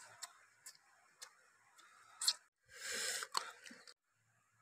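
Close eating sounds of grilled fish being picked off the bone and chewed: soft chewing with small mouth clicks, a sharper click just after two seconds and a louder burst of noise about three seconds in.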